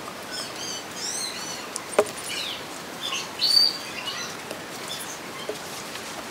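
Small birds chirping: a string of short, high chirps and quick falling notes, the loudest about three and a half seconds in. A single sharp click sounds about two seconds in.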